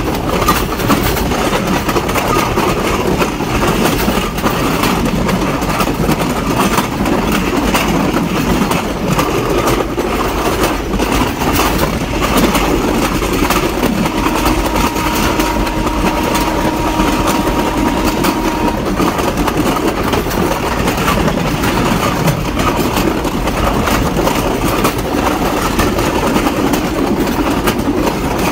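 Sri Lankan diesel train running along the track: a steady, loud rumble of engine and wheels on the rails. About halfway through, a thin steady tone is held for about five seconds.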